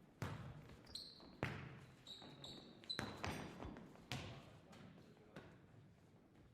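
A series of irregular knocks, about seven or eight, each dying away quickly, with a few short high squeaks around the second and third seconds.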